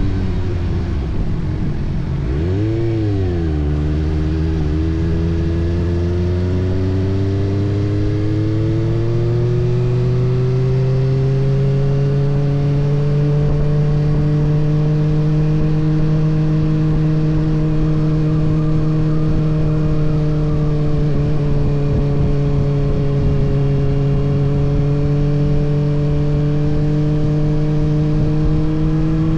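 Kawasaki ZX-6R's 636 cc inline-four engine under way: its pitch falls as the bike slows, jumps up and back down in a quick rev blip about three seconds in, then climbs steadily as it accelerates and settles into a steady cruise.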